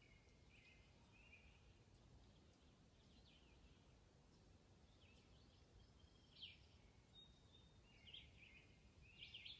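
Near silence with faint bird chirps: a few short, high calls scattered through it, the clearest about six and a half seconds in and again near the end.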